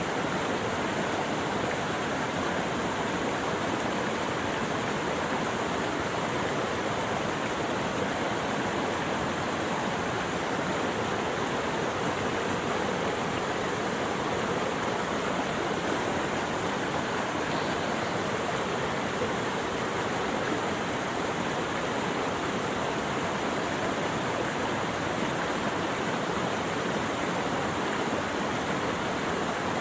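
Steady rushing of flowing water, an even unbroken hiss that never changes in level.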